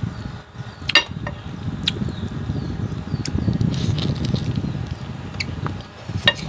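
Mukbang eating sounds: a steady low chewing noise, broken by four or five sharp clinks of tableware.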